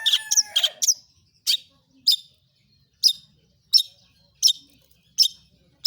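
Long-tailed shrike (cendet) calling: a quick run of varied chattering notes in the first second, then a string of single sharp, high 'toet' calls repeated about every 0.7 s.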